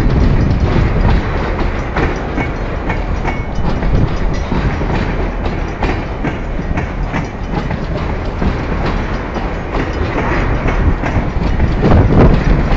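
Freight train of tank cars rolling past at close range: a steady heavy rumble with the clacking of steel wheels over the rails, swelling louder near the end.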